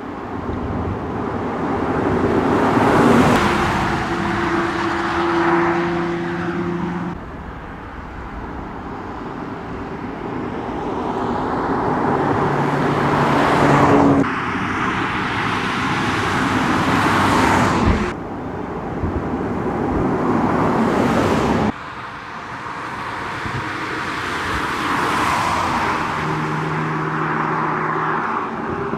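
Toyota GR Supra's 3.0-litre turbocharged inline-six and tyres as the car drives, the sound swelling and fading in several passes that change abruptly between shots.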